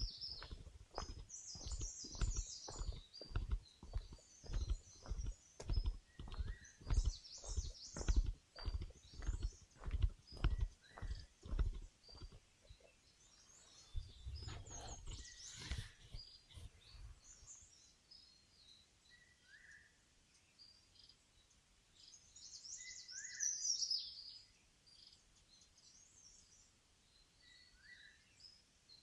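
Footsteps on a forest trail, about two steps a second, stopping about twelve seconds in, followed by a brief louder rustle. Small birds chirp and trill high overhead throughout, with a burst of twittering near the middle of the quieter second half.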